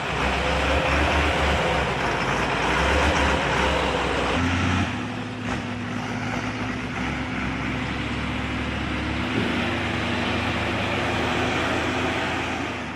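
Heavy logging truck running under way, a steady engine hum over a wash of road noise; the engine note changes about four and a half seconds in and then holds steady.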